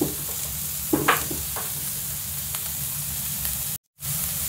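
Beef and sliced onion sizzling steadily in a non-stick wok, with a few short scrapes of a spatula stirring about a second in. The sound cuts out for a moment near the end.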